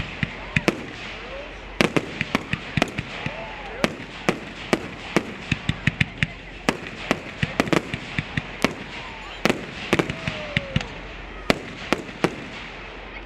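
Fireworks going off: dozens of sharp bangs and cracks in quick, irregular clusters, with a few brief gaps between volleys.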